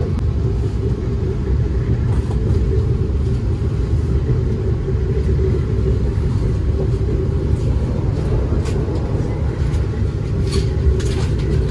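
Steady low rumble of a moving passenger train heard from inside the carriage, with a few faint ticks near the end.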